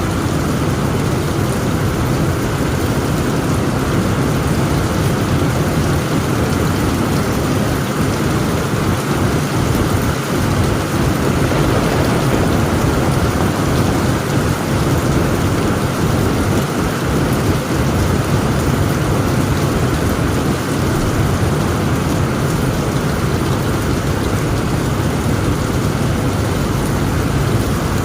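Heavy rain falling steadily on a tent roof, an even dense hiss with a constant low rumble underneath and no single crack or clap.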